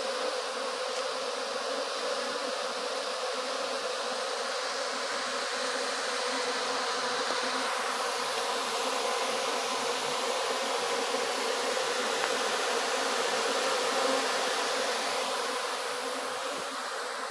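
A honeybee colony buzzing: a dense, continuous drone of many bees together, holding one steady pitch.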